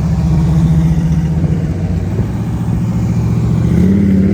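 A car engine running, with a steady low note that rises a little in pitch near the end as it is revved slightly.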